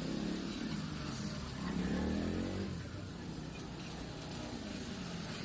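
Road traffic: a motor vehicle's engine passing close by, rising in pitch and swelling about two seconds in before easing off, over a steady background hum.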